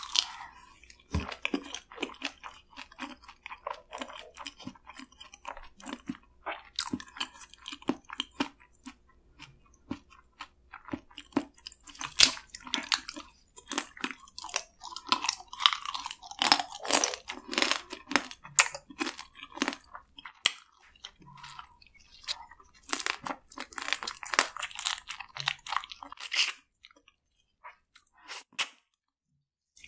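Close-miked eating of spicy marinated raw crab and rice: wet chewing and crunching of crab shell, in irregular runs of sharp clicks and crackles that thin out briefly near the end.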